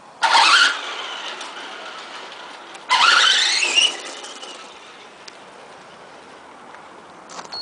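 Electric 540 motor and gear drive of an RC monster truck whining up in pitch on two hard accelerations about three seconds apart, each trailing off afterwards.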